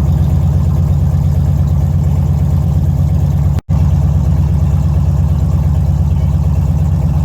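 Chevrolet small-block V8 swapped into a Datsun 280Z idling steadily and loud, with a sudden brief break about three and a half seconds in.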